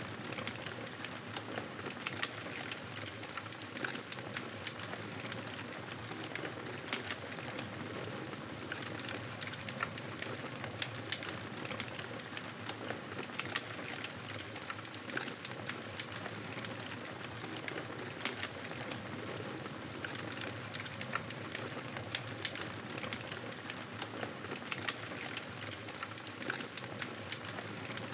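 Wood campfire burning, a steady hiss with frequent sharp crackles and pops.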